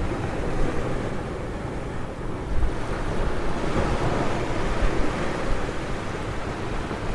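Ocean surf breaking and washing onto a beach as a steady rush of noise, with wind buffeting the microphone.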